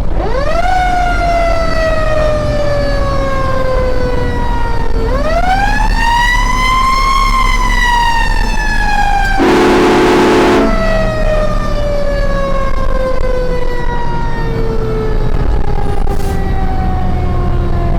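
Fire engine siren responding to a call: it winds up sharply, then falls slowly, is wound up again to a higher pitch about five seconds in, and then coasts down slowly. A horn blasts for about a second midway, over the truck's engine rumble.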